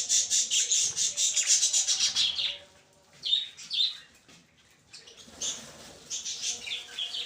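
Small pet parrots chattering: a dense run of rapid high chirps for about two and a half seconds, then a pause, a couple of short calls, and a few more bursts of chirping near the end.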